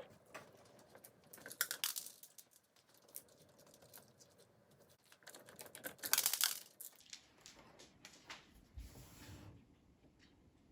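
Small plastic LEGO pieces clicking and rattling as they are handled, with crinkly rustling; a louder stretch of rustling about six seconds in and a soft low thump near nine seconds.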